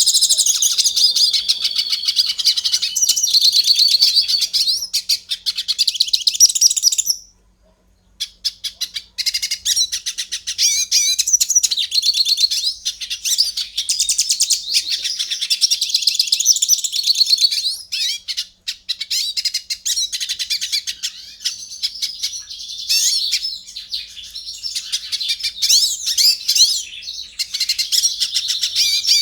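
Many small birds chirping and twittering at once in a dense, continuous chorus. It cuts out for almost a second about seven seconds in, then resumes.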